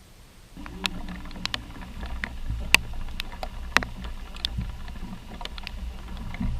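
A boat's motor running, a steady low rumble that comes in suddenly about half a second in, with many sharp clicks and knocks over it.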